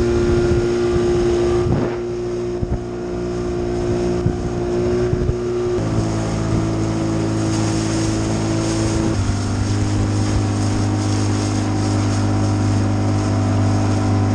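Outboard motor of an inflatable rescue boat running steadily underway, its engine note dropping abruptly in pitch twice.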